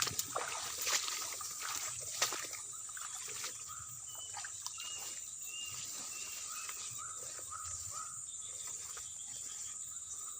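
Outdoor ambience: a steady high insect drone, a few rustles or steps in the first couple of seconds, then a bird giving a run of short chirps in the middle.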